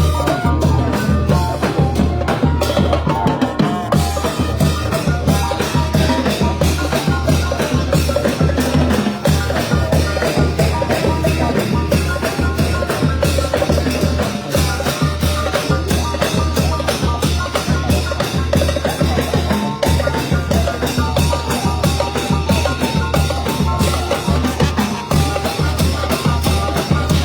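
Thai brass band (trae wong) playing, with drums keeping a steady, driving beat under the horns.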